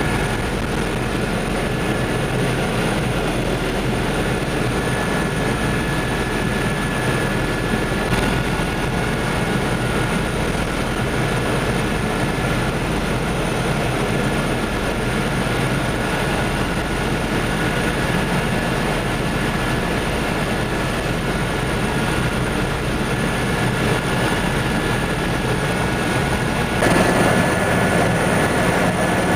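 Helicopter in flight: steady engine and rotor noise with a faint high whine. It gets a little louder near the end.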